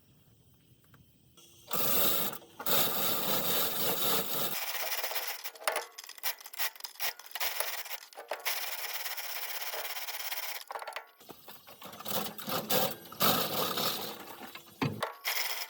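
Rough scraping and rubbing in irregular spells, with short gaps and a few sharp strokes, starting after a quiet second and a half.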